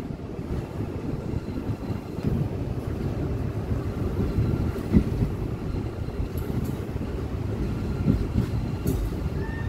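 Train rolling past close by: a steady rumble of wheels on rails with irregular knocks and clatter, the sharpest about halfway through.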